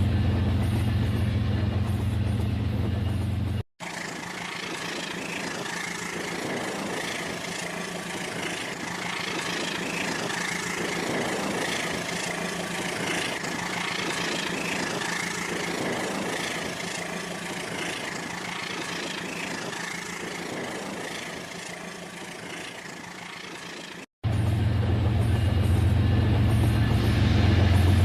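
Battery-powered toy train running on plastic track, a steady motor hum. The sound cuts off abruptly about four seconds in to a noisier, clattering mix of wheels and track, then cuts back to the low hum near the end.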